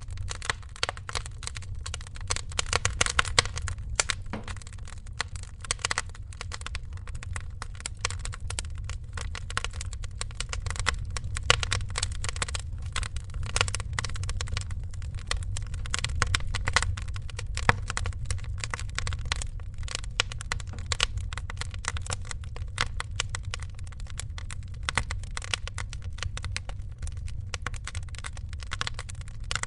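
Wood fire crackling, with dense irregular pops and snaps over a steady low rumble, a few pops standing out louder.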